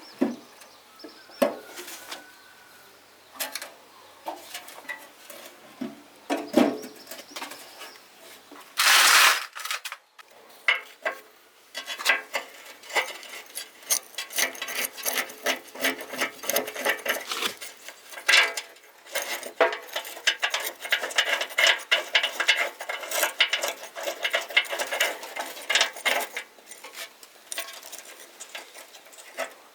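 Metal parts clinking, knocking and scraping as they are handled in machine repair work, with a short burst of hiss about nine seconds in and a long stretch of rapid clicking and scraping after it.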